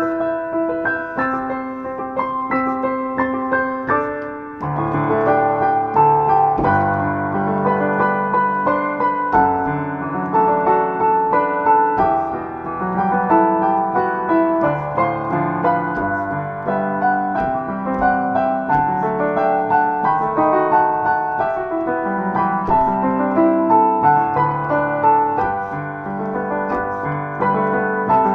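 Solo piano playing a pop ballad, melody over chords. About four and a half seconds in, low bass notes come in and it gets fuller and louder.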